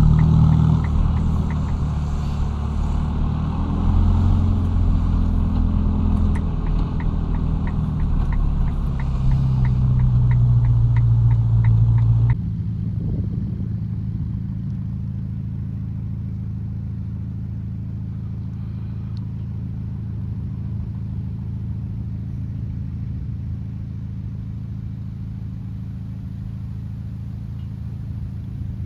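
Ferrari Roma's twin-turbo V8 running at low speed, its pitch rising and falling with a quick regular ticking over it. About 12 seconds in the sound changes abruptly to a quieter, steady low engine drone.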